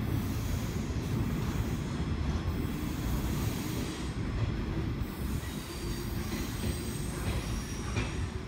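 Freight train wagons rolling away on the rails, with a steady low rumble and the wheels squealing.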